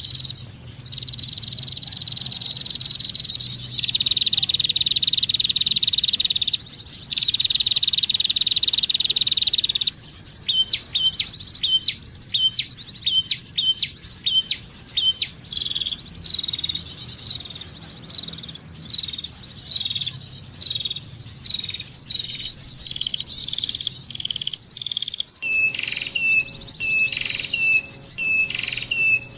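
Bird song played as a trapping lure: long buzzing trills for several seconds, then a run of short sharp chirps at about two a second, and near the end a different series of falling whistled notes.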